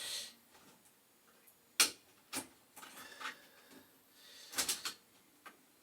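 Small sharp clicks and light handling noise as a wire connector is fitted onto the terminal of a boiler's spark-ignition control board: one loud click about two seconds in, another just after, and a quick cluster of clicks near the end.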